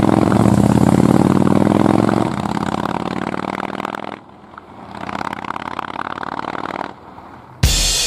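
Motorcycle engine running at a steady speed, loud for the first two seconds, then quieter with a brief dip at about four seconds. Drum-led music starts abruptly near the end.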